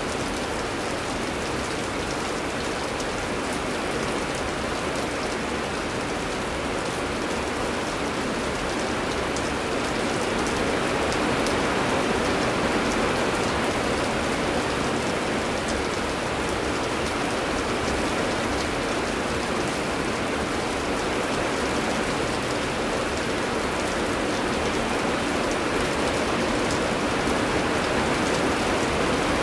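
Heavy rain falling steadily, a dense continuous hiss speckled with fine drop ticks, swelling slightly about ten seconds in.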